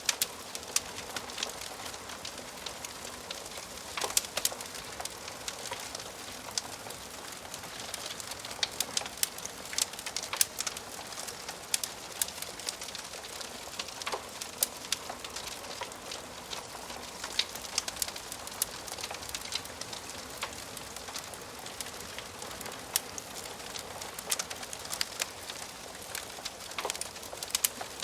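Wood fire crackling in a fireplace: a steady soft hiss with many irregular sharp pops and snaps from the burning logs.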